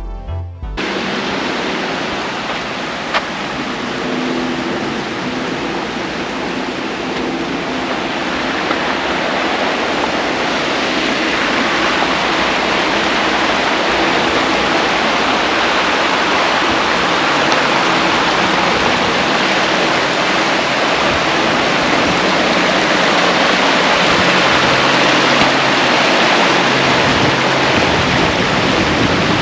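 River water rushing over rapids: a steady, even rush that grows gradually louder.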